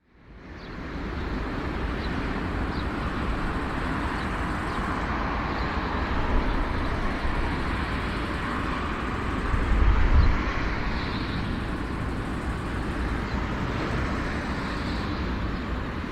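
Aircraft engines running: a steady rushing noise with a heavy low rumble, fading in at the start and swelling louder about ten seconds in.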